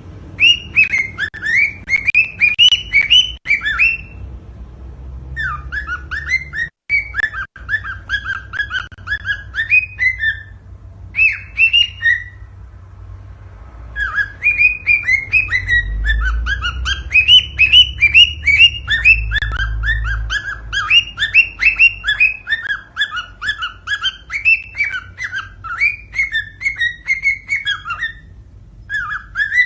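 Cockatiel singing: rapid runs of short whistled chirps in phrases, broken by brief pauses, over a faint low hum.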